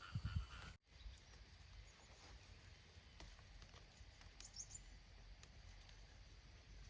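Near silence: faint outdoor ambience with a low rumble and a few soft ticks.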